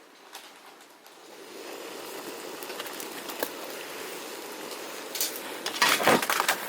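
A steady low hiss builds up, and near the end comes a brief burst of clinks and clatters, like dishes or utensils being handled.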